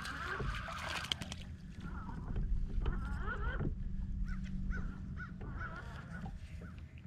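A bird calling in a series of short, repeated notes over a low steady hum.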